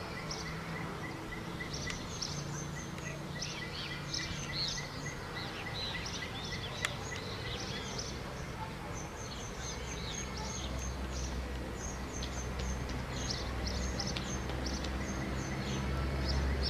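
Several birds chirping and calling in many short, quick high notes, over a steady low rumble that grows louder near the end.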